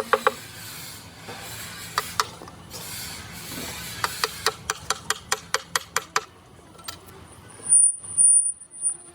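Hand tools working on metal: a few sharp taps, then a run of about nine evenly spaced taps at roughly four a second, and a louder scraping burst with a thin high whine near the end.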